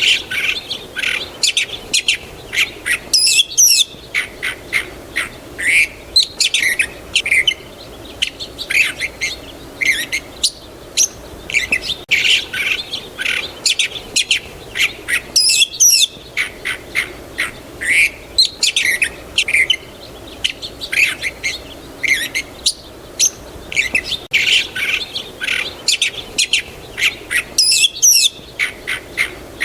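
Several songbirds chirping and calling, a busy run of short chirps and quick descending notes, over a faint steady background hiss.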